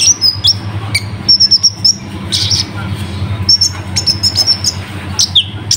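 Konin (kolibri ninja) sunbird singing a fast song of high-pitched chirps and quick trills, with a short falling whistle near the end.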